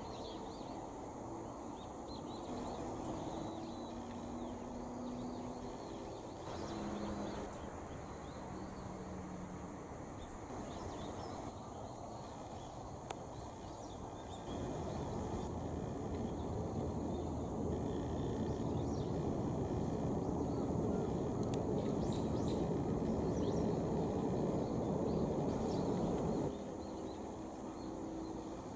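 Outdoor background noise: a low rumble with a few short hums and faint chirps above it. The rumble grows louder for about twelve seconds in the middle and drops suddenly near the end.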